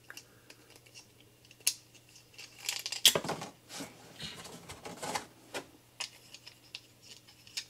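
Plastic parts of a Transformers Shattered Glass Ratchet action figure clicking and rattling as they are folded and pushed into place during transformation: scattered single clicks with a few short clusters of rattling.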